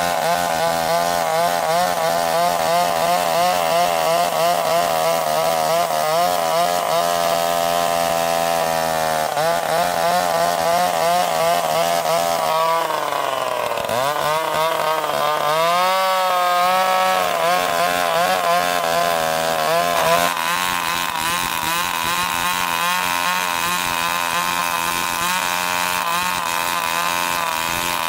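Chainsaw engine running steadily with a wavering pitch. About halfway through it sags sharply as if loaded in a cut, then picks back up within a couple of seconds and runs on.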